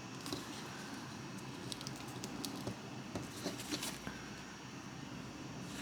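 Origami paper being folded and creased by hand, making small scattered crinkles and crackles, mostly in the first four seconds, over a steady faint hiss.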